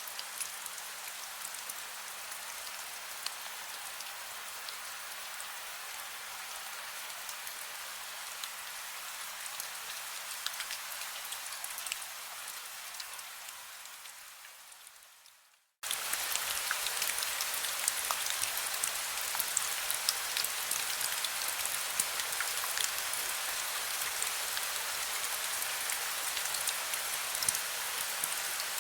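Heavy rain falling: a steady hiss with scattered drop ticks. About halfway through it fades away to a moment of silence, then starts again abruptly and a little louder.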